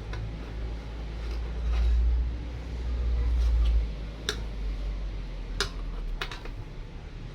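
Sharp clicks and knocks of parts being handled while fitting the brake cover onto a twin-tub washing machine's spin-dryer, over a low rumble that is loudest in the first half.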